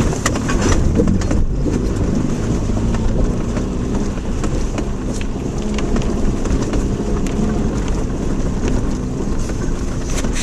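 Inside a Subaru Outback driving over a rough, rocky dirt road: the engine runs under a heavy, steady low road noise, with frequent knocks and rattles from the car's body and suspension.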